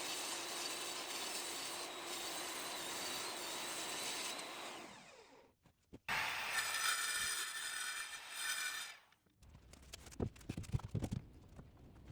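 Power drill driving screws through wooden face panels into the pocket door's split jamb: one run of about five seconds that winds down, then a second run of about three seconds. Light knocks and handling follow near the end.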